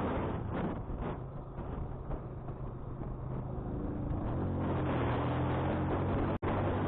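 Motorcycle engine running steadily under wind rushing over the microphone. The wind eases about a second in, letting the engine's steady hum come through, then builds again. Near the end the sound cuts out for an instant.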